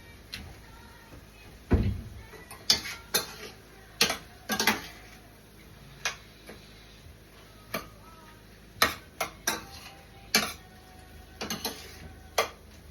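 A metal utensil clinking and knocking against a cooking pot in irregular sharp taps, with one heavier thump about two seconds in.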